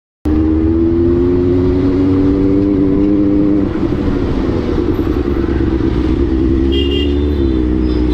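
Benelli 600i superbike's inline-four engine running at a steady pitch, starting abruptly a moment in. The note dips slightly about three and a half seconds in and wavers again near the end.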